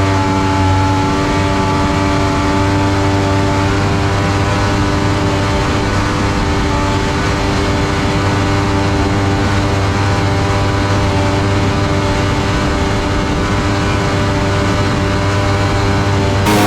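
Mini jet boat's engine running steadily under way, holding an even pitch throughout.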